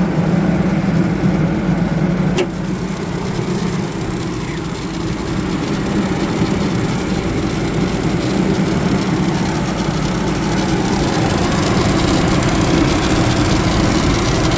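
A 1999 Ford F-250's 4.6-litre V8 idling steadily, with a single sharp click about two seconds in.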